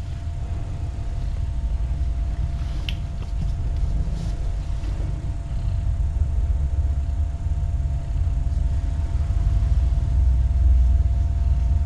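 A low, fluctuating rumble that grows louder toward the end, under a faint steady hum, with a single click about three seconds in.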